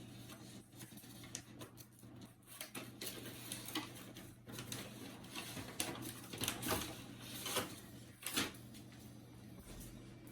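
Irregular light clicks and rustling as the plastic parts of an HP LaserJet P1102 fuser unit and a sheet of paper are handled, busiest in the second half, over a steady low hum.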